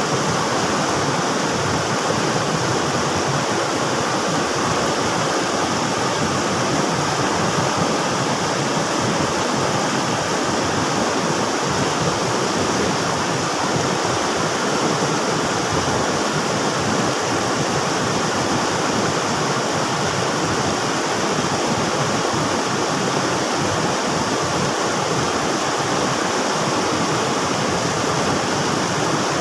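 River water rushing steadily, a dense, even wash of noise with no breaks or changes.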